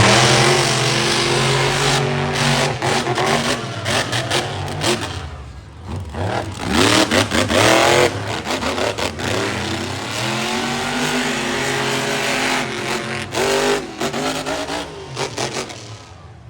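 Monster truck engine revving hard again and again, its pitch repeatedly climbing and dropping as the driver gets on and off the throttle, dying down near the end.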